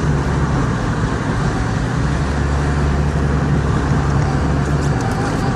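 Car interior noise while driving: steady engine hum and road noise heard from inside the cabin, the low hum growing stronger and more even about two seconds in.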